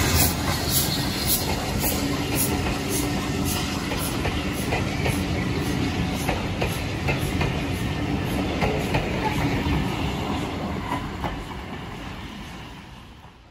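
A train passing on a heritage railway, running with a regular clacking beat that fades away over the last couple of seconds as it recedes.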